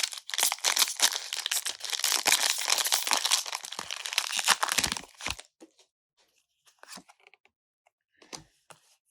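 A foil Pokémon booster pack being torn open and crinkled, a dense crackling that runs about five seconds and then thins to a few scattered light crinkles as the wrapper is handled.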